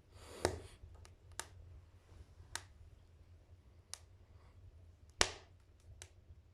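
Wood fire crackling in an open-door wood-burning stove: sharp pops, the two loudest about half a second in and about five seconds in, with a few smaller snaps between.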